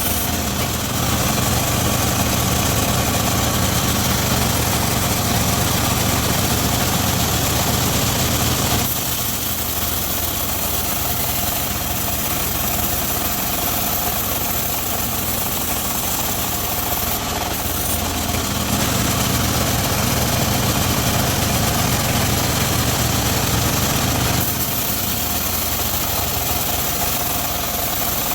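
Homemade engine-driven circular sawmill running with a steady mechanical hum. It grows louder and heavier twice: from about a second in until about nine seconds, and again from about 19 to 24 seconds.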